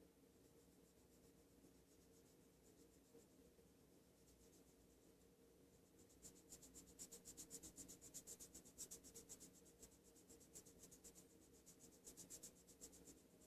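Faint, quick back-and-forth rubbing on a fingernail, several short strokes a second, starting about halfway through and running for several seconds after near silence.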